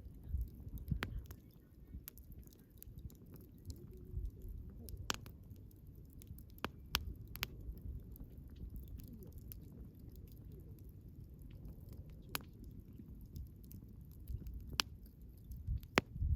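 Wood bonfire burning with a low steady rumble, crackling, and scattered sharp pops and snaps of the burning logs, several loud ones a few seconds apart.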